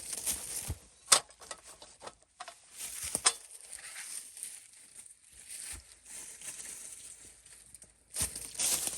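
Rustling and crinkling handling noises, with two sharp clicks about a second and three seconds in and a louder rustle near the end.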